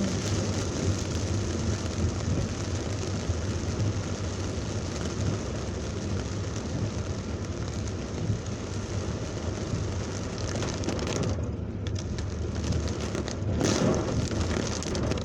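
Heavy rain hissing on a car in traffic, over a steady low rumble of the car on the road. The rain's hiss drops away for about two seconds near the end, then returns.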